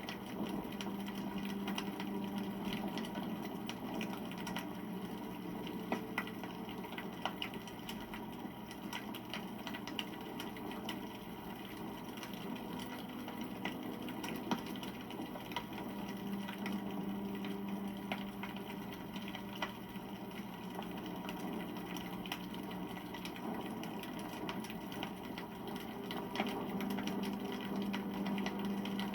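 Wood campfire crackling, with frequent small sharp pops and snaps over a steady hiss of burning. A low hum rises and fades a few times underneath.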